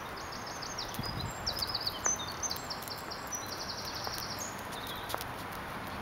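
A small songbird singing in quick runs of high, rapidly repeated notes and trills, stopping about four and a half seconds in, over a steady outdoor background hiss.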